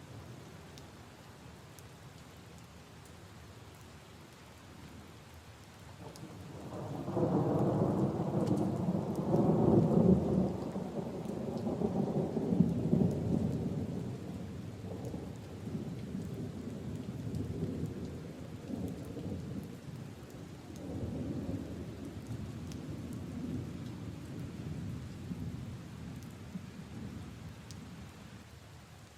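Steady rain falling on leaves and puddles. About seven seconds in, a long roll of thunder rumbles up, is loudest a few seconds later, and slowly dies away over the next fifteen seconds or so.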